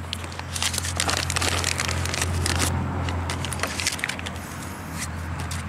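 Packaging being handled and pulled open to take out a new tie rod, a run of irregular crackles, rustles and clicks. A steady low hum runs underneath.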